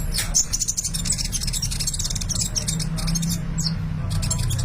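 A sunbird singing a fast, high-pitched twittering song in rapid runs of notes, over a steady low hum.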